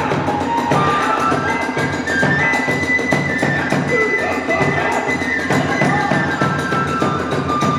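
Hiroshima kagura hayashi: a bamboo transverse flute playing long, slightly bending high notes over a fast, steady drum beat of about three strokes a second, with hand cymbals clashing throughout.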